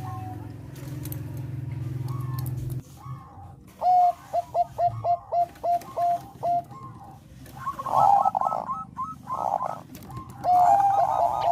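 Zebra dove (Thai 'perkutut bangkok' strain) singing: a run of short, quick cooing notes, about three a second, each dropping at its end, broken by denser rolling phrases. A low steady hum fills the first few seconds before the song starts.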